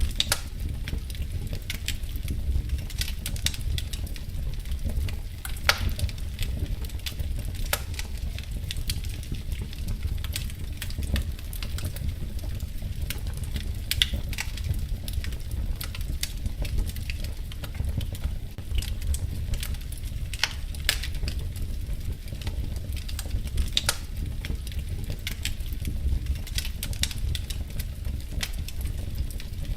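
Wood fire crackling in a fireplace, with frequent sharp, irregular pops and snaps over a steady low rumble of the flames.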